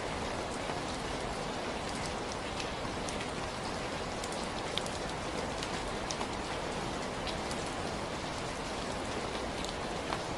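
Steady rain falling, with an even hiss and scattered individual drops ticking on a surface.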